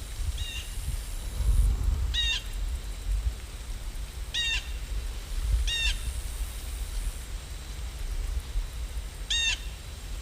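A bird giving five short, harsh calls a second or two apart, over a steady low rumble.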